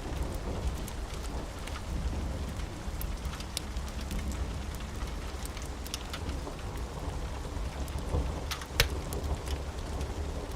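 Steady rain over a continuous low rumble of thunder, with scattered sharp ticks and one louder crack about nine seconds in.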